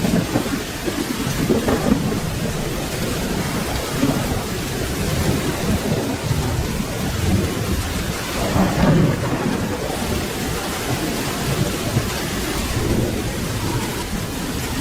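Steady rain falling with low rolling thunder rumbling underneath, building to a stronger rumble about two-thirds of the way through.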